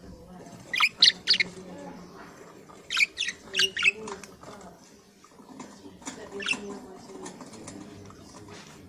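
Pet budgerigars calling in short, sharp, high-pitched chirps and squawks, in three clusters: about a second in, around three to four seconds in, and near six and a half seconds, over soft continuous chatter.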